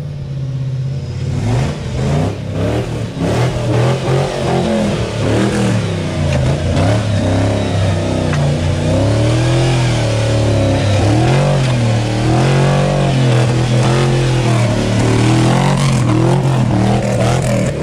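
Off-road 4x4's engine running and revving up and down repeatedly, its pitch rising and falling throughout.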